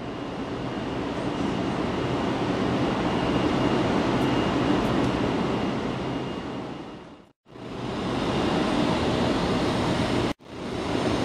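0 Series Shinkansen train pulling out of a station: a steady rumble of motors and wheels with a faint high whine, building over the first few seconds. The sound cuts off abruptly twice, about seven and ten seconds in, and starts again each time.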